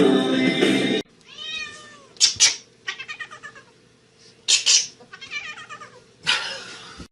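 A domestic cat meowing repeatedly after music cuts off about a second in. It gives a series of separate calls, some drawn out and rising then falling in pitch, a few short and loud.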